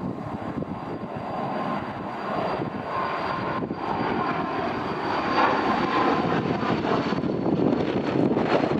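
Aircraft engines running, a steady rush of noise with a high whine that slowly drops in pitch, growing louder as the aircraft draws nearer.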